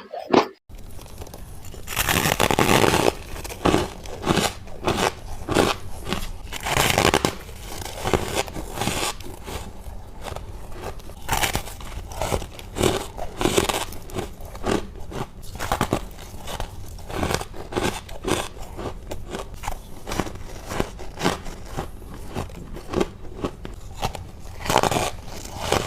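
Crisp crunching of someone biting into hard chunks of humidifier freezer frost, close to the microphone. A rapid, irregular run of bites and crunches starts about half a second in.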